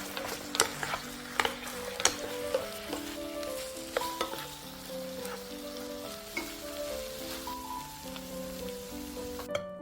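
Tofu sizzling in a frying pan as it is stirred, with several sharp clicks of the utensil against the pan in the first half, over light background music. The sizzling cuts off abruptly just before the end.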